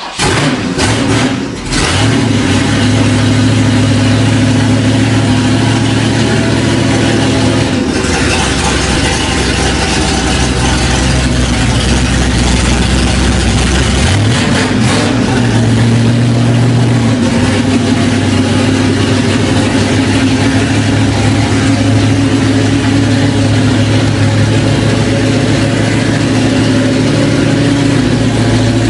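1971 Ford Mustang Mach 1's 351 Cleveland four-barrel V8, bored .040 over with a Lunati Bracket Master II cam and an 800 CFM carburettor, starting and catching within about two seconds, then idling loud and steady.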